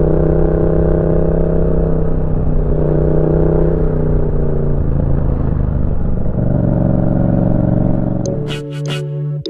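Yamaha MT-07 parallel-twin engine breathing through a Roadsitalia aftermarket exhaust while riding, holding fairly steady revs with a few shifts in pitch. Near the end the engine fades under music.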